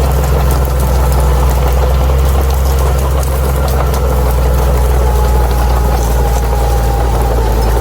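Crawler bulldozer's diesel engine running steadily, a low, even rumble with a thin whine above it that holds its pitch.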